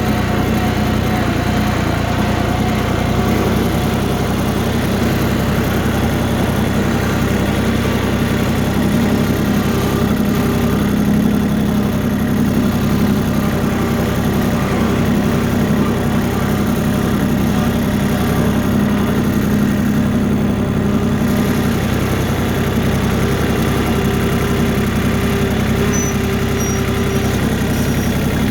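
Tractor engine running steadily and loudly, with no break.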